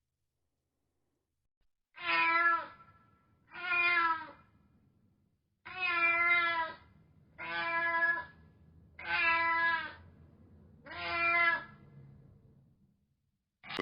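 Domestic cat meowing six times, each meow about a second or shorter, with short pauses between.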